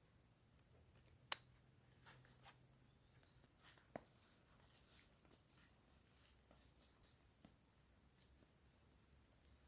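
Faint, steady high chirring of crickets or other insects, with two sharp clicks, one about a second in and one about four seconds in.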